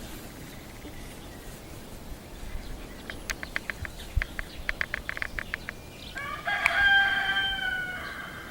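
A rooster crowing once, a held call of about two seconds starting around six seconds in, preceded by a quick run of short ticking notes.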